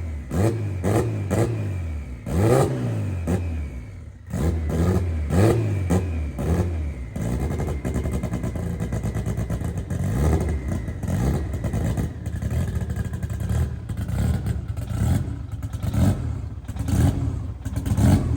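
Turbocharged Honda B-series four-cylinder in an EK Civic revved in a series of short rising blips, dipping briefly about four seconds in, then running more steadily with occasional revs. The car stays put because the clutch is not engaging.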